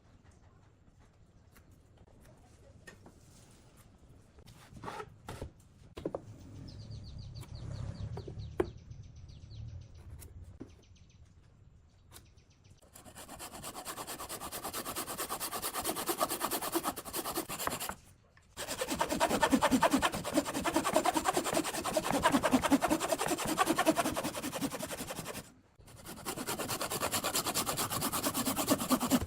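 Abrasive rubbing on wood, such as sanding, in three long stretches of quick scratchy strokes separated by two brief pauses, after a few light knocks in the first half.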